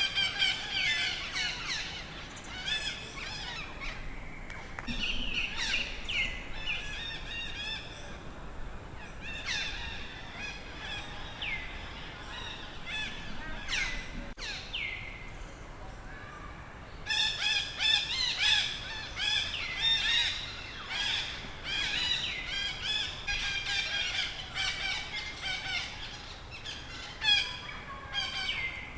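Animal calls: many short, high-pitched chirps and squeals, some dropping sharply in pitch. They come densely at first, thin out in the middle and grow busy again for the last dozen seconds.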